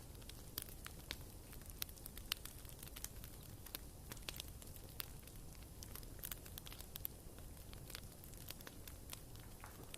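Wood fire burning in a fireplace, crackling with irregular sharp pops, several a second.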